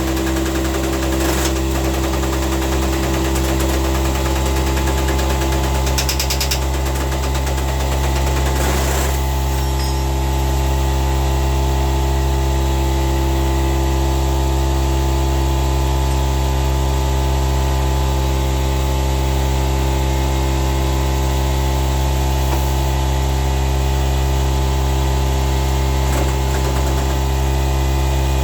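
Steady low mechanical hum, with a few short clicks and rattles of tools in the first nine seconds.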